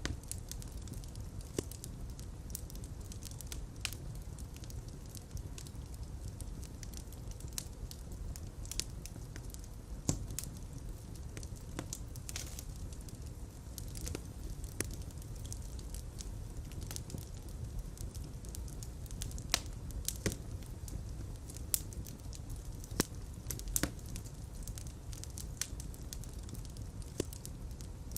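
Fire crackling in a fireplace: a steady low rumble of flames with irregular sharp pops and snaps scattered throughout.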